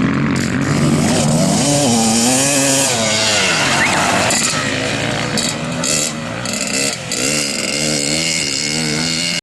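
Off-road motorcycle engine running hard, its pitch rising and falling again and again as the throttle is worked, with a raspy exhaust.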